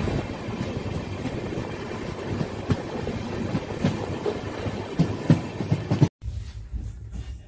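Passenger train coach running along the track, a steady rush of wheel and rail noise with irregular clacks, heard from the open doorway. About six seconds in the sound cuts off abruptly and a quieter low rumble follows.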